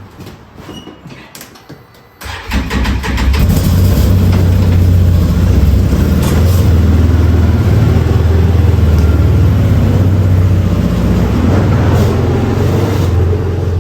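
Polaris Sportsman 450 HO ATV engine starting about two seconds in after a few clicks, building up over a second, then running loudly and steadily.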